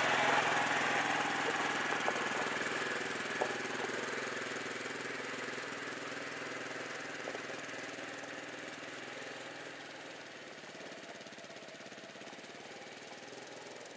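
Tractor's diesel engine running steadily with a knocking clatter, gradually fading over the whole stretch.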